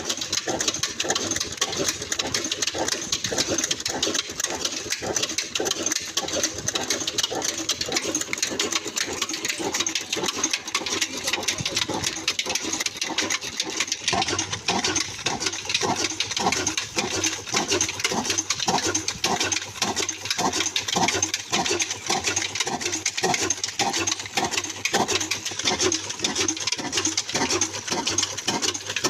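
Old black desi diesel engine, a slow-speed single-cylinder stationary type, running steadily under load with an even, rhythmic beat while driving an aata chakki flour mill.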